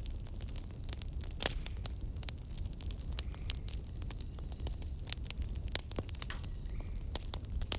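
Wood fire in a fireplace crackling: frequent, irregular sharp pops and snaps over a steady low rumble of the burning fire.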